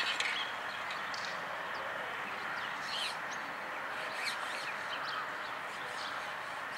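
Birds chirping now and then, short scattered calls over steady outdoor background noise.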